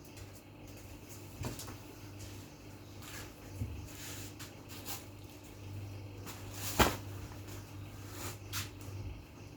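Household handling sounds: scattered knocks and clatter, the loudest a sharp knock about seven seconds in, over a low steady hum.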